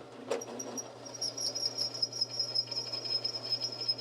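Electric drill boring a half-inch hole through leaf-spring steel, the bit giving a steady high-pitched squeal over the motor's hum, strengthening after about a second. The hardened steel is hard on the bit.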